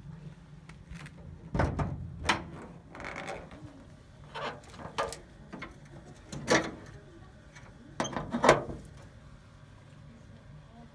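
A series of mechanical clicks and clunks, about six of them spread over several seconds, the loudest near the end, over a faint low steady hum.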